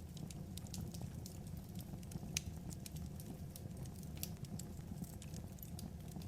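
Wood fire crackling: irregular sharp pops and snaps of burning logs over a low, steady rumble.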